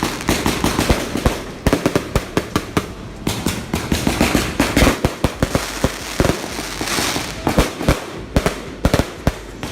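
A rapid, irregular string of loud sharp bangs and crackles, several a second, with hissing between them and no break.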